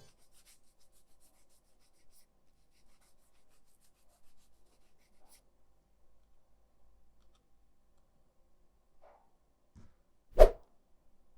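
Faint small clicks and rubbing, then a single sharp thump near the end.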